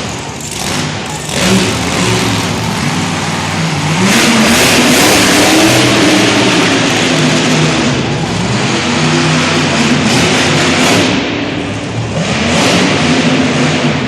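Monster truck engine revving hard, its pitch rising and falling again and again under a heavy roar that is loudest from about four seconds in until about eleven seconds.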